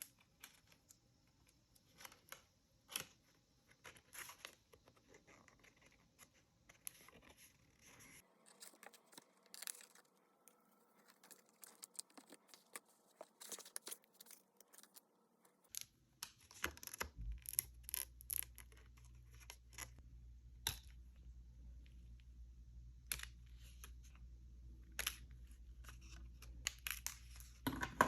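Faint paper-crafting sounds: paper being handled, cut and torn, in scattered small clicks and rustles. A low steady hum comes in about halfway through and continues under them.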